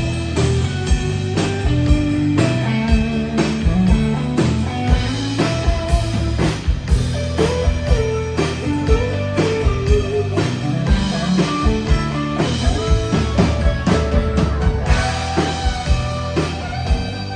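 Country band playing an instrumental break: a melodic lead line over guitar, bass and a steady drum-kit beat.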